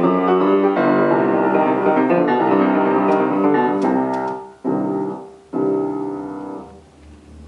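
Solo piano playing a classical piece to its close: a run of notes breaks off about four and a half seconds in, then two separate final chords sound and ring out, the last fading away.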